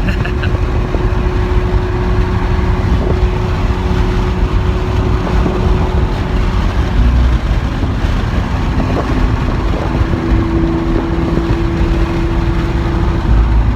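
Lamborghini Aventador SV's V12 engine and road noise heard from inside the cabin while cruising: a steady low drone whose pitch shifts slightly a couple of times.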